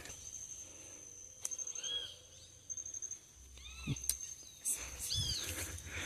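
Rainforest ambience: a bird gives a few short arched, whistled calls about a second apart, over a steady high insect whine.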